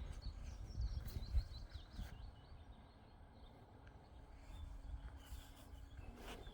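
A small bird chirping a run of quick high notes in the first two seconds, over a continual low rumble of wind or handling on the microphone.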